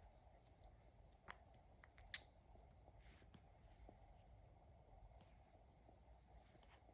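Near silence: faint room tone with two short light clicks, about one second in and again about two seconds in.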